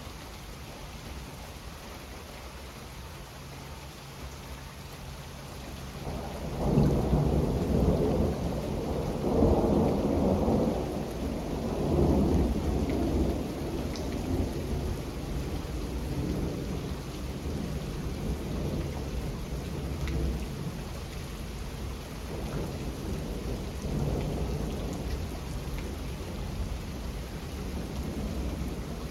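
Steady rain with a long rolling thunder rumble. The rumble swells up about six seconds in, peaks in several waves over the next few seconds, then rumbles on more quietly, with a smaller swell later on.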